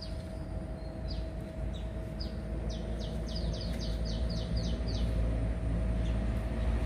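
A bird calling: a few single short high notes that each drop in pitch, then about two seconds in, a quick run of about ten such notes at roughly five a second. A steady low rumble runs under it.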